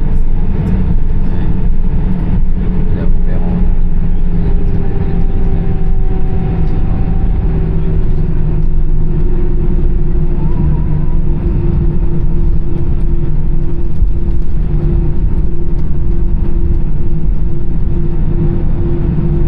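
Airbus A320's CFM56 jet engines running at taxi power, heard from inside the cabin: a loud, steady low rumble with a hum whose pitch sinks slightly over the first several seconds and then holds steady.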